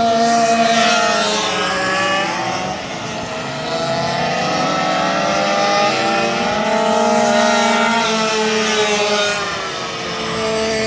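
Several racing minibike engines revving high, their pitch rising and falling as the riders accelerate and shift. The sound peaks twice as bikes pass close, about a second in and again around seven seconds in.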